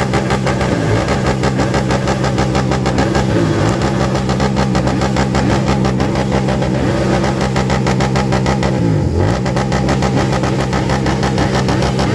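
Car engine running steadily and loudly, its pitch dipping briefly and recovering three times.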